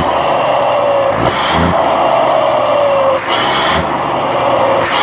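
Scania R420's straight-six diesel running with a turbo comb fitted to the turbocharger, giving a whistling turbo whine that slides down in pitch. Short bursts of high hiss come about a second and a half in, again past three seconds, and near the end.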